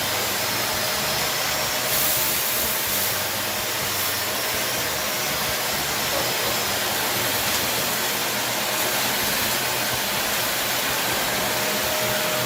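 Wap Silent Speed Max corded upright vacuum cleaner running steadily while picking up spilled rice: a steady rush of air with a faint whine. It shuts off about a second after the end.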